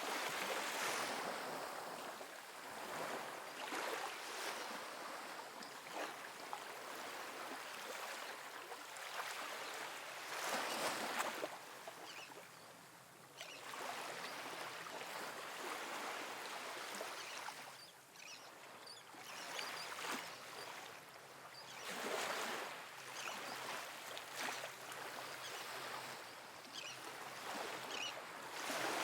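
Calm, soft ocean waves splashing onto a sandy beach. The surf rises and falls in a swell every few seconds, the strongest about eleven seconds in and again at the end.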